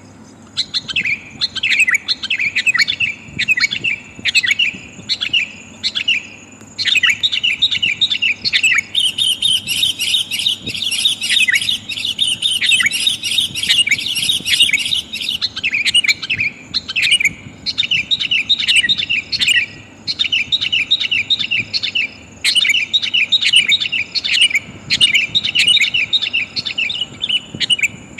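Sooty-headed bulbul calling: quick bursts of short, bright chirping notes. The bursts repeat every second or so, merging into a dense, unbroken chatter for several seconds in the middle. It is a female's call used as a lure to draw in wild males.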